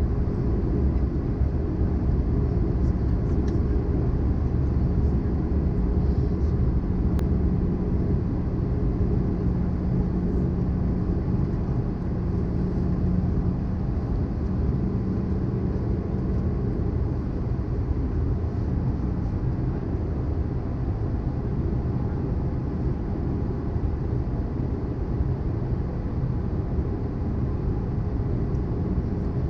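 Steady cabin noise of an Airbus A320-214 on descent, heard from a window seat: a low rumble of airflow and CFM56 engines with a steady low hum that eases a little about halfway through.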